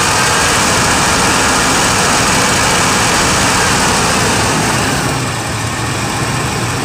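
1999 Chevy Tahoe's 5.7 L Vortec 350 V8 running with the throttle held open above 1,000 RPM, the speed used for reading CMP retard while setting distributor timing, easing back down about five seconds in.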